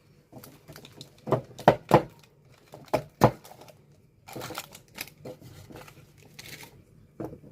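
Packaging crinkling and rustling, with several sharp clicks and knocks, as glass lunch boxes and their airtight lids are handled.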